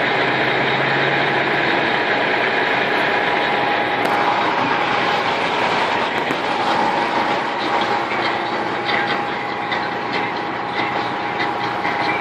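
Strong tornado wind: a loud, steady rushing roar, with scattered faint ticks from about eight seconds in.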